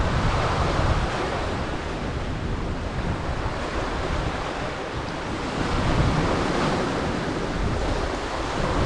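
Surf washing onto the shore of a rough sea, with wind gusting on the microphone as low rumbles, strongest at the start and again about six seconds in.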